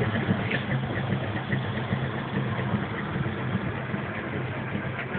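A vehicle engine idling steadily with a low, slightly uneven rumble.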